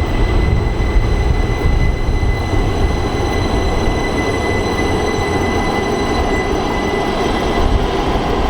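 Rhaetian Railway train running: a loud, steady rumble with a high, even whine over it.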